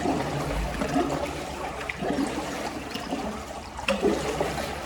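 River water trickling and splashing around a kayak on the move, with a couple of brief sharper knocks, about two seconds in and near the end.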